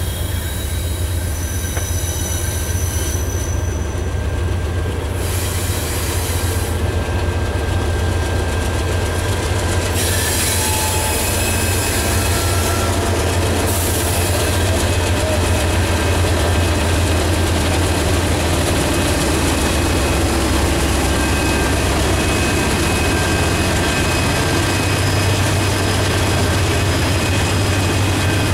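Two GE Dash 9-40CW diesel locomotives hauling a freight train, their engines a steady low rumble that grows louder as they approach and pass. Brief high-pitched wheel squeals come from the cars on the curving track.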